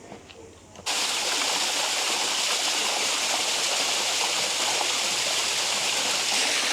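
Steady rushing water, cutting in abruptly about a second in.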